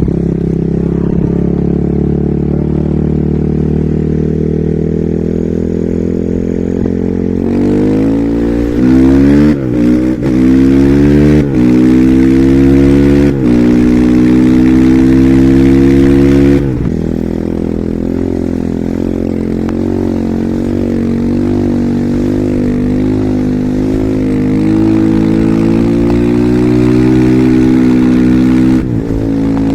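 Husqvarna SMR 450 supermoto's single-cylinder four-stroke engine under way. It runs steadily, then about seven seconds in it accelerates hard, revving up and shifting up through several gears in quick succession. Past halfway the throttle closes abruptly and it runs on at a steadier, lighter load.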